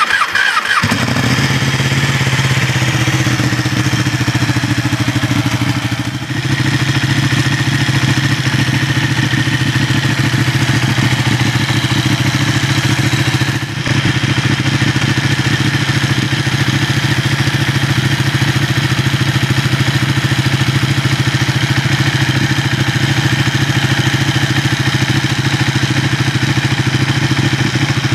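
Ducati 1199 Panigale's Superquadro V-twin cranking and catching on a cold winter start, then idling steadily, dipping briefly twice.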